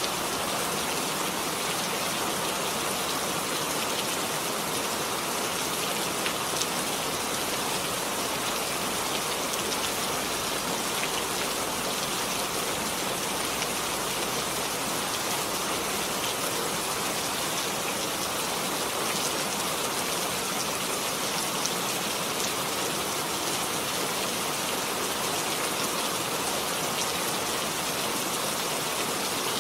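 Steady rain falling on a surface, an even hiss of rain with scattered individual drop ticks.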